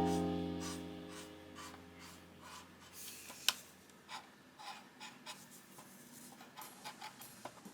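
A piano chord fades out over the first two seconds. Then come faint scratching and rubbing from hand work on plastic model parts, with scattered small clicks and one sharper click about three and a half seconds in.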